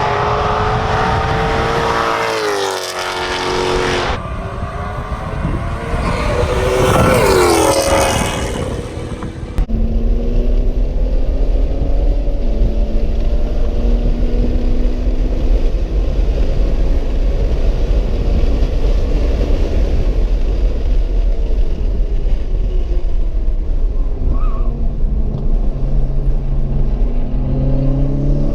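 Sports car engines at speed on a race track: for the first several seconds engine notes sweep up and down through the revs, then the sound changes abruptly to a steady heavy rumble of engine, road and wind, the engine note slowly rising and falling as the car drives the circuit.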